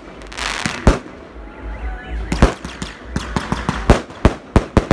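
Aerial fireworks going off overhead: loud bangs, a couple spaced apart at first, then coming in quick succession over the last second and a half, with a hiss and crackle between them.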